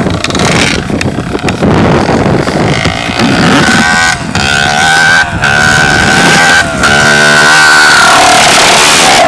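Dirt bike engine running hard, rough at first, then held at a steady high-pitched rev for several seconds with a few brief breaks.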